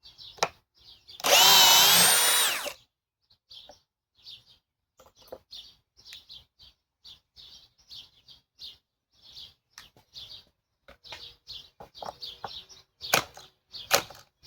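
Cordless hammer drill running briefly in reverse, backing out a screw, its motor whine rising in pitch as it spins up. Afterwards birds chirp faintly on and off, with a few sharp clicks near the end.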